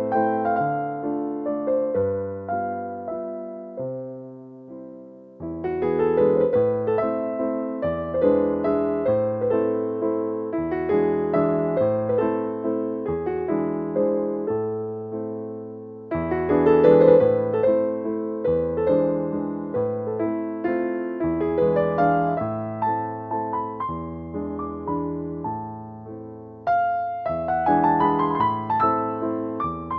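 Background piano music, a gentle waltz in A minor, with notes that ring and fade and a short pause between phrases about five seconds in.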